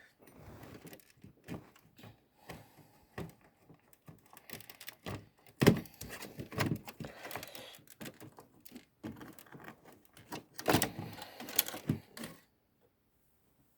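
Hands handling parts of an original Xbox being taken apart: scattered clicks, rattles and knocks, with louder clunks about halfway through and again near the end, then it goes quiet.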